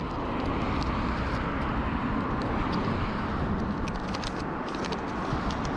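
Steady roadside traffic noise, with a run of light clicks from about four seconds in.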